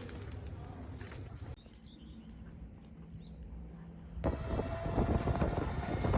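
Rented scooter's engine running, with wind noise on the microphone, in short clips cut together; quieter in the middle and louder in the last two seconds.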